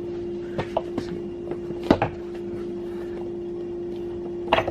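Clicks and knocks of metal parts being handled as the side cover of an electric longboard hub motor is worked off, the loudest knock about two seconds in. A steady hum runs underneath.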